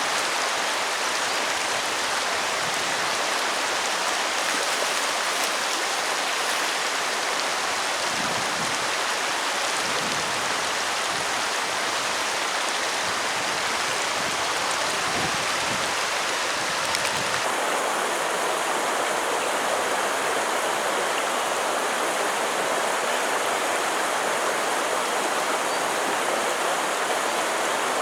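Steady rushing of running water, an even hiss with no distinct drops or splashes. About two-thirds of the way through, the sound changes abruptly and becomes duller, losing some of its highest and lowest parts.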